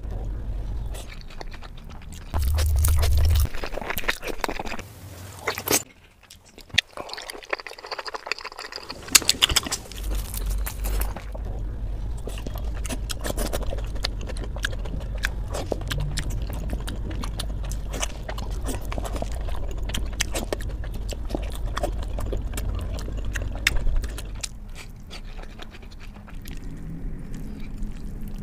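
Close-miked eating of steamed momo dumplings: wet chewing and squishing, with many small mouth clicks.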